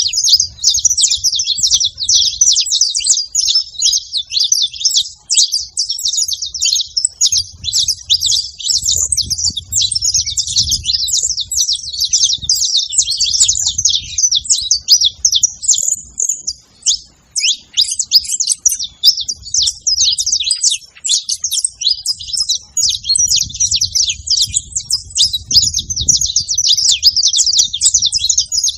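Saffron finch (canário-da-terra) chirping and singing without let-up, a dense run of rapid high-pitched notes that breaks off briefly about two-thirds of the way through.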